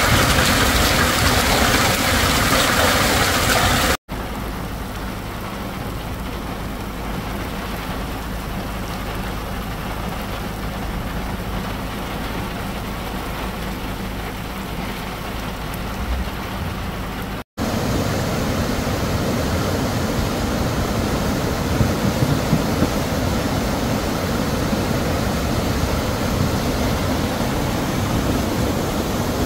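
Heavy rain pouring, a loud hiss; about four seconds in it cuts to a softer, steady rain over open ground, and about seventeen seconds in to muddy floodwater rushing and churning through a wadi channel.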